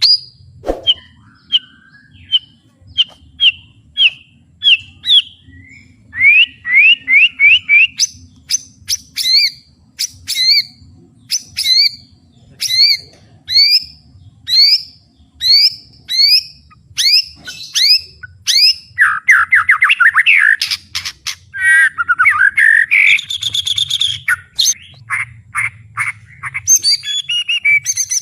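White-rumped shama singing loudly: series of short rising whistled notes repeated one after another, then fast trilled and chattering phrases about two-thirds of the way through.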